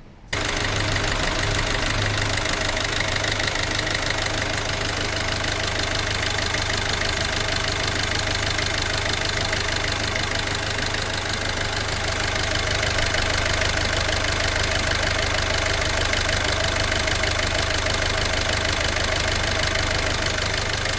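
Peugeot 308 1.6 HDi 8-valve diesel engine running steadily at idle with a knocking clatter. The knock is the sign of a failing vacuum pump whose rotor is scoring the inside of its housing.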